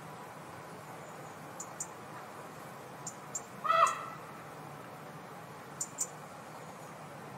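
A single short, pitched bird call about halfway through, with pairs of sharp, high ticks now and then over a faint steady background.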